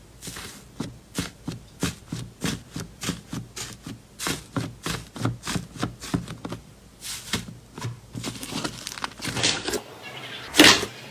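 Slime being squeezed and poked by hand, making a quick run of sharp crackling pops, about three to four a second, with two louder squelchy pops near the end.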